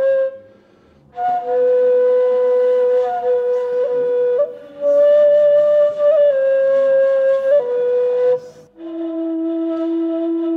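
Ney (Turkish end-blown reed flute) playing a slow melody of long held notes with small pitch slides between them, in phrases broken by short pauses. Near the end it settles on a long, steady lower note.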